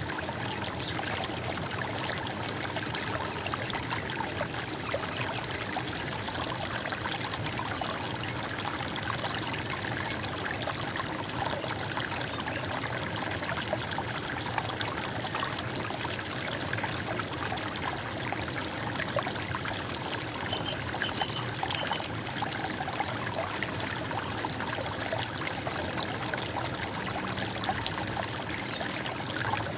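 Running water in a stream, gurgling and trickling steadily without a break.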